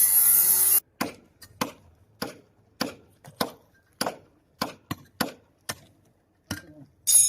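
A steady mechanical hum and hiss cuts off abruptly, followed by a regular series of sharp knocks, about a dozen, roughly one every half second or so, each with a brief ring, like tool strikes on a hard surface.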